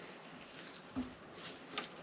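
Faint handling sounds of a breather hose being fitted onto a jet-ski engine: a soft knock about a second in and a sharp click near the end.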